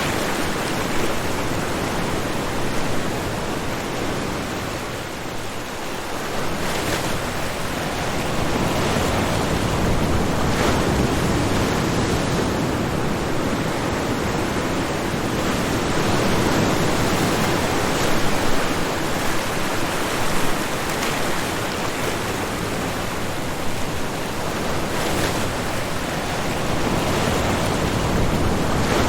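Ocean waves breaking on a shore: a continuous wash of surf that slowly swells and eases.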